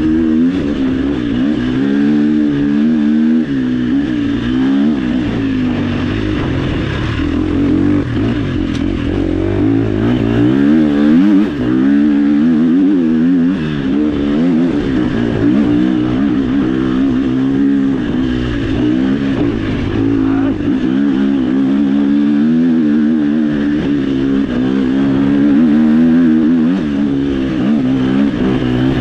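Off-road dirt bike engine riding a trail, its revs rising and falling constantly as the throttle is worked.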